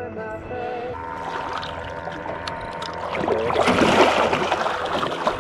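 Water splashing and churning around a small boat, building to a loud peak about four seconds in, over steady background music.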